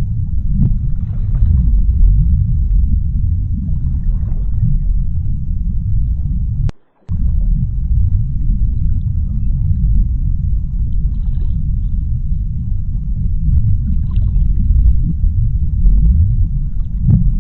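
Underwater ocean ambience: a deep, steady low rumble with faint, shifting noise above it. About seven seconds in it cuts out for a split second with a click, then resumes.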